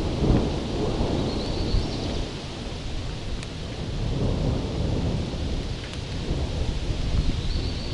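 Thunder rumbling, swelling and fading, over steady heavy rain.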